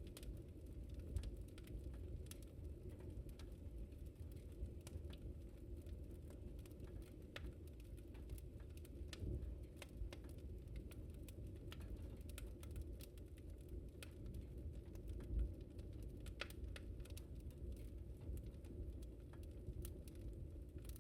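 Wood fire in a fireplace crackling: irregular sharp pops and ticks over a low, steady rumble of burning.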